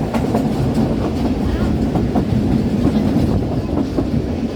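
Moving train running along the track: a steady loud rumble with scattered sharp clicks from the wheels.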